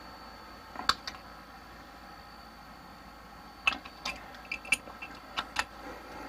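Sharp metal clicks and taps of a wrench being fitted and worked on a plumbing fitting, one about a second in and a quick cluster in the second half, over a steady faint hum.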